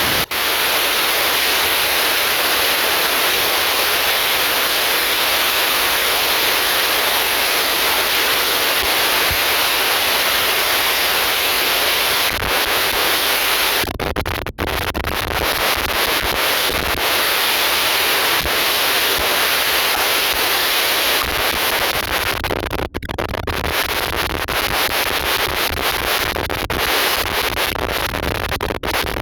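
Steady loud rushing noise of an airliner in flight, heard from inside the cabin, with short breaks about halfway through and again later.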